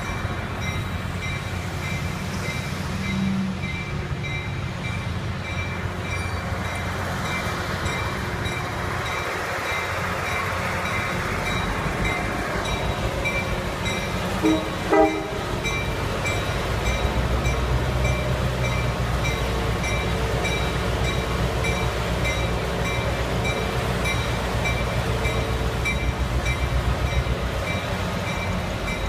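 Locomotive running with a bell ringing steadily. About halfway through its horn gives two short toots, and after that the engine's low rumble grows louder.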